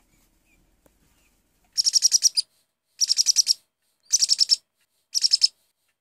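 Bird chirping in four short bursts of rapid, high chirps, about a second apart, starting nearly two seconds in.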